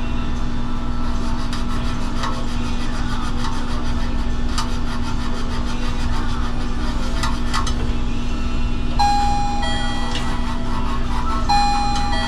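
Abrasive cloth scraping over copper refrigerant tubing in short rasping strokes, cleaning it for brazing, over a steady low machine hum. Two brief high tones sound about nine and eleven and a half seconds in.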